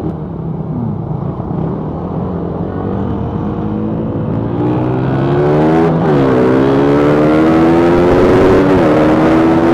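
Suzuki Raider R150 motorcycle engine accelerating through the gears. Its pitch climbs, drops at an upshift about six seconds in, climbs again and drops at another shift near the end, growing louder as the speed builds.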